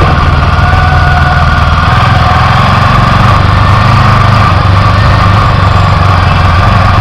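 Motorcycle engine running steadily, heard loud and close from on the bike while riding.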